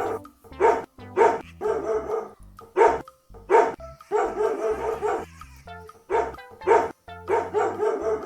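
A dog barking repeatedly in short barks over light background music.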